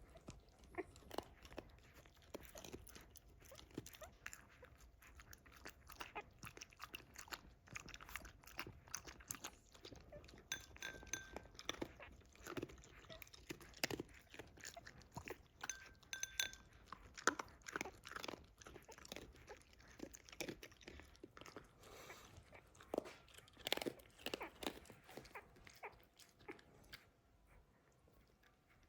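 A dog chewing and crunching food, with many irregular crunches, and two brief high squeaks, one about a third of the way through and one about halfway.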